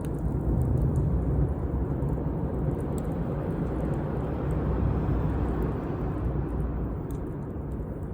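Campfire burning: a steady low rumble with faint, scattered crackles.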